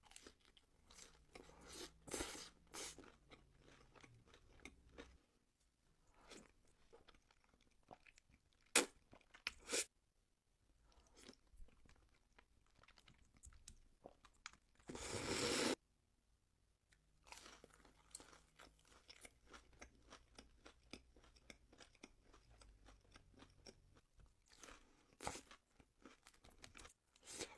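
Close-up chewing and crunching of food, a string of small crackling clicks, with one louder noisy burst lasting under a second about halfway through.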